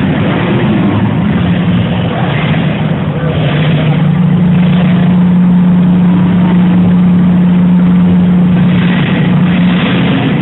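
Vehicle engine running loud, holding a steady pitch from about four seconds in.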